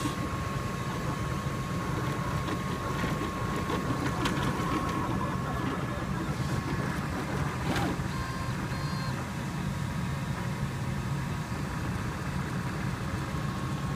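CTC 3D printer (a MakerBot clone) running a print: a steady mechanical hum and whir with a constant high whine, a single click about eight seconds in and a few short high tones just after it.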